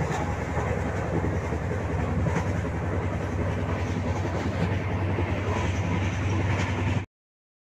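Steady low rumble of a moving passenger train heard from inside a crowded coach, wheels running on the rails with a few faint clicks. The sound cuts off abruptly near the end.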